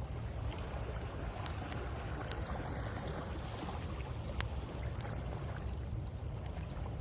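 Sea waves washing onto the shore, one swelling and receding about a second to three seconds in, under a steady low rumble. A wood bonfire crackles close by with scattered sharp pops.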